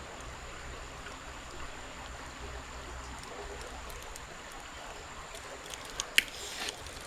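Creek water running steadily, with two sharp clicks near the end.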